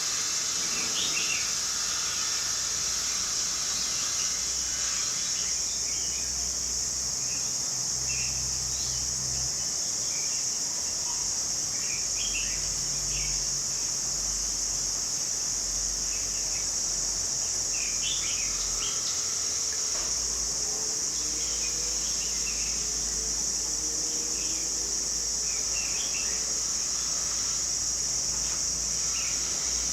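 Steady high-pitched drone of insects, with short bird chirps scattered through it.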